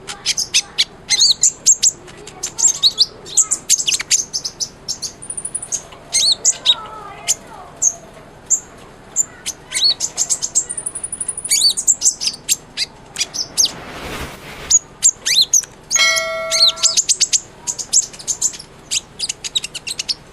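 A kolibri ninja singing in full voice: a fast, continuous string of high, sharp chirps and short trills, with a couple of longer thin high whistles. A brief burst of hiss comes about fourteen seconds in, and a short steady tone about sixteen seconds in.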